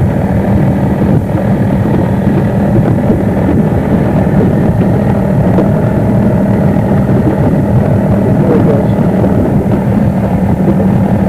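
Motorboat engine running steadily at a constant speed, heard from on board, with a low, unchanging hum over a dense rumble.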